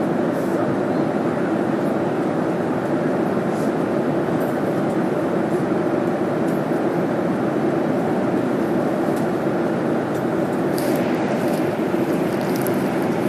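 Steady aircraft cabin noise in flight: an even, unchanging rushing drone of air and engines.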